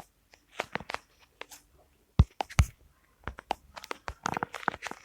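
Close crunching and crackling: a quick, irregular series of sharp clicks, loudest a little past the middle.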